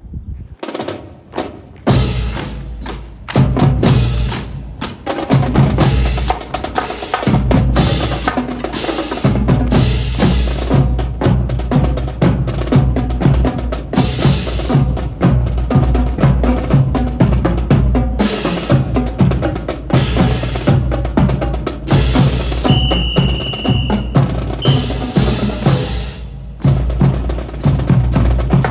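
Drumming with bass and snare drums keeping a steady marching beat, starting about two seconds in. Near three-quarters of the way through, a high held tone sounds for over a second, then a brief second one.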